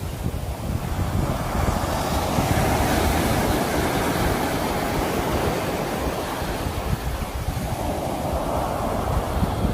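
Sea waves surging and washing on the shore in two swells, about two seconds in and again near the end, with wind buffeting the microphone underneath.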